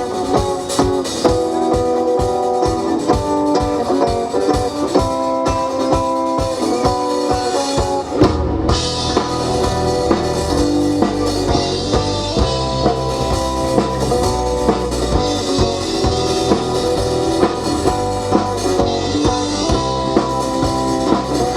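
Rock band playing an instrumental introduction: electric guitar over a drum kit. A heavy low bass part comes in about eight seconds in.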